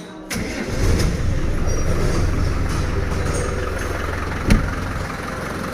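Land Rover 300Tdi 2.5-litre four-cylinder turbodiesel engine running steadily, coming in suddenly just after the start. A single sharp knock sounds about four and a half seconds in.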